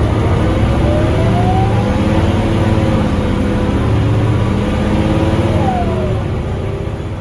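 Scania DC9 five-cylinder diesel bus engine pulling under acceleration, with a whine that rises in pitch twice and a short falling whine near the end.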